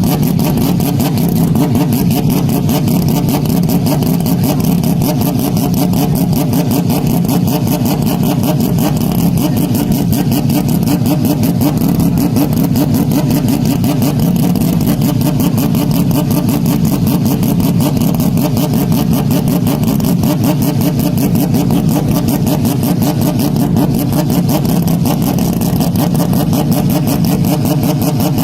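Car engine running at a steady pitch, very loud and heavily distorted and clipped.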